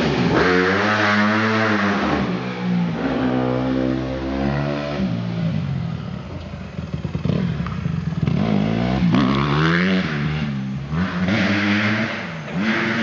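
2008 Honda CRF150RB dirt bike's single-cylinder four-stroke engine revving, its pitch climbing and falling away several times.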